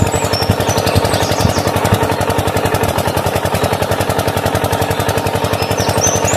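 Mini diesel engine running steadily, a rapid, even chugging of closely spaced firing knocks. Birds chirp briefly above it about half a second in and again near the end.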